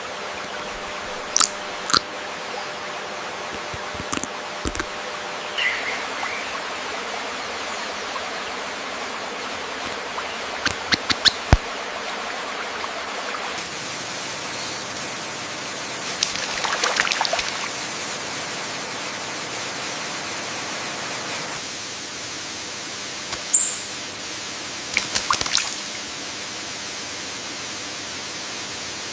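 Steady hiss of running water, like rain or a stream, with occasional short bird chirps and clicks over it, in small clusters and a few single high calls.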